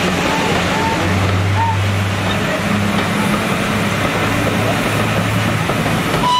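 Passenger coaches of a steam-hauled train rolling past on the rails: a steady rushing rumble of wheels on track with a low hum underneath.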